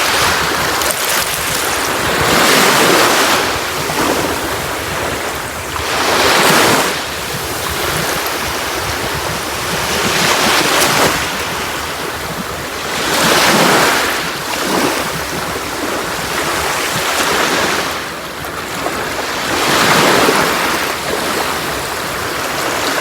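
Sea waves breaking on a beach, each swell of surf rising and washing back about every three to four seconds.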